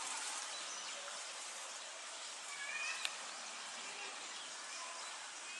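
Steady outdoor background hiss with a few faint bird chirps and a single sharp click about three seconds in.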